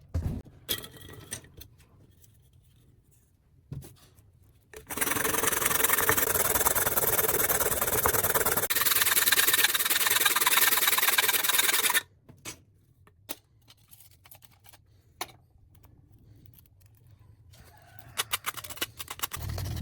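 Workshop tool noise: scattered clicks and knocks, then about seven seconds of loud, steady noise from a tool working material, then more knocks and clatter.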